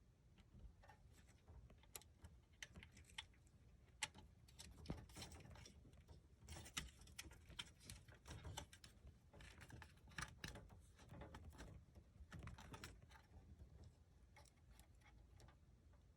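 Faint, irregular small clicks and rustling of hands working wiring: plastic connectors and wire terminals being moved onto an HVAC control board.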